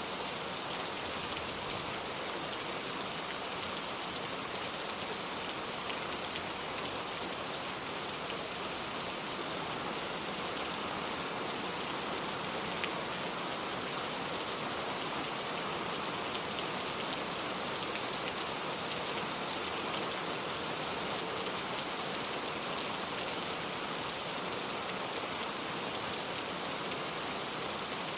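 Heavy rain pouring down steadily, a dense even hiss with scattered sharper drop ticks, one a little louder about 23 seconds in.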